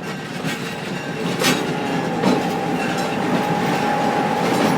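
A train's cars rolling past on the track, the wheels clacking now and then over rail joints, with a faint steady high tone coming in about two seconds in.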